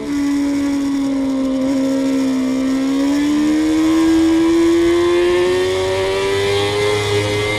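Suzuki GSX-R inline-four sport bike engine heard from the onboard camera, pulling hard in one gear through fast bends. Its pitch sags a little, then climbs steadily as the bike accelerates, over a steady hiss of wind.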